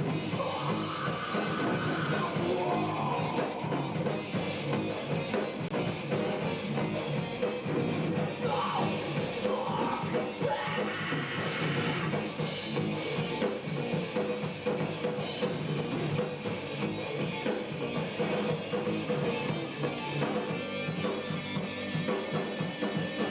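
A rock band playing a song: drum kit, electric guitars and bass guitar together, with a steady dense mix.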